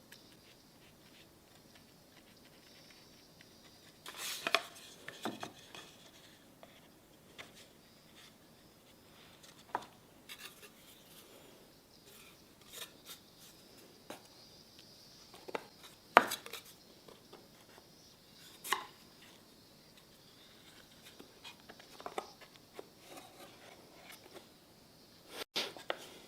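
Scattered clicks and knocks from pieces of wood being handled and set down on a workbench, a few sharp ones spread out over long quiet stretches.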